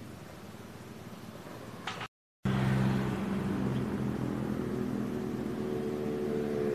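Faint steady background hiss. After an abrupt break about two seconds in, a vehicle's engine runs with a steady hum and road noise as it drives along.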